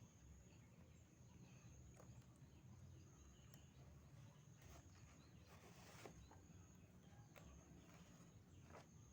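Near silence: faint background with a steady thin high whine and a few soft, scattered clicks.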